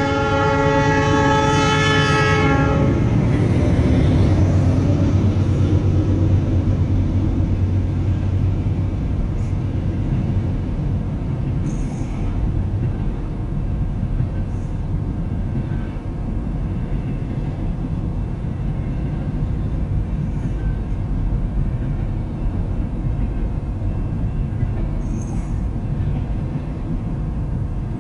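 Diesel locomotive air horn sounding a steady chord that cuts off about three seconds in. Then the steady low rumble of the locomotive and freight cars rolling past.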